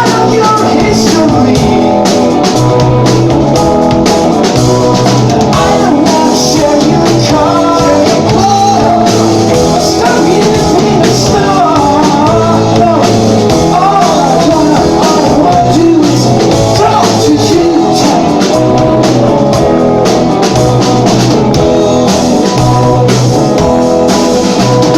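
Rock band playing a song with electric guitar and drum kit, a singing voice or lead melody winding above the band through the middle.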